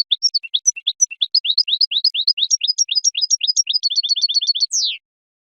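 Goldfinch singing: a quick run of short sweeping chirps that speeds up into a fast trill of about ten notes a second, ending in one falling note and cutting off suddenly about five seconds in.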